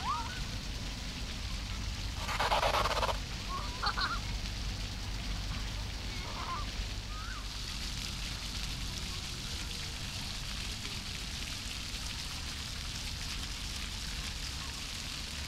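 Birds calling in a park, goose-like honking calls among them. There are a few short calls in the first half; the loudest comes about two and a half seconds in, and another follows a second later. A steady rumbling, hissing background runs beneath.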